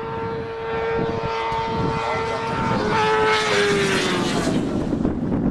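An engine-driven vehicle passing at speed: a steady engine note that drops in pitch about three seconds in as it goes by, with a swelling rush of noise.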